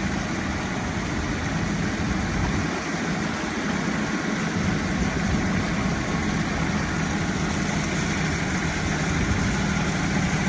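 Tractor diesel engines running steadily under load, straining to pull a stuck truck.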